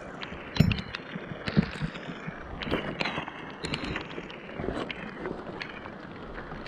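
Scrap being rummaged through by hand: scattered knocks and clatters, the loudest about half a second in, over a steady hiss of rain and wind on a waterlogged GoPro microphone.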